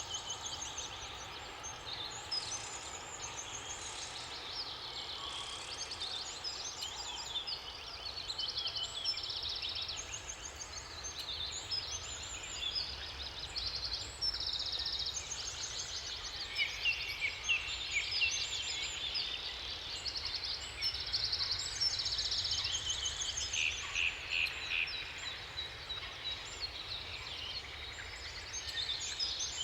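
Several songbirds singing over one another: many short, fast trills and chirps repeating throughout, over a low steady background noise.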